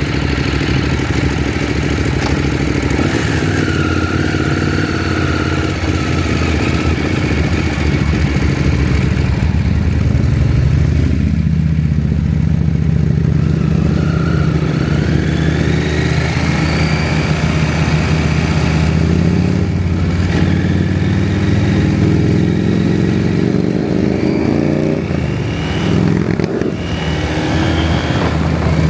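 KTM 790 Adventure's parallel-twin engine running under way, its pitch rising and falling a few times as the throttle is opened and closed.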